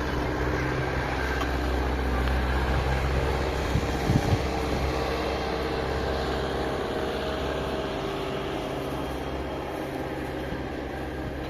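A motor vehicle's engine running steadily, slowly getting quieter, with a couple of brief knocks about four seconds in.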